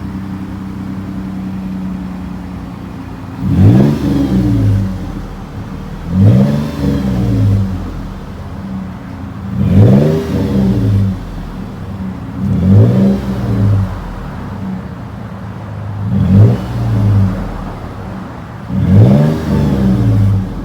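2017 Toyota 4Runner's 4.0-litre V6 idling through a custom 2.5-inch cat-back exhaust with a Flowmaster 44 series muffler, then revved six times, each rev climbing and falling back, about every three seconds.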